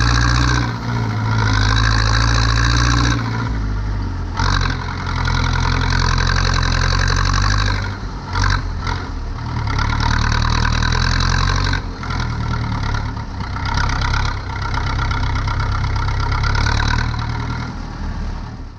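Zetor 7245 tractor's four-cylinder diesel engine running under load, its note dropping and picking up again several times. It fades out at the very end.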